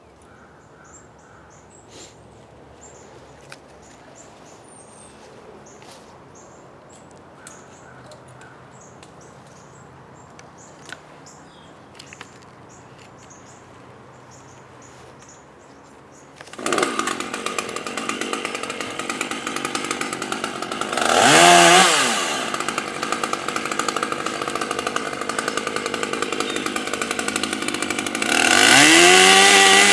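Faint bird chirps, then about halfway through a chainsaw starts up and runs at a steady idle, revved up and back down twice, the second rev near the end.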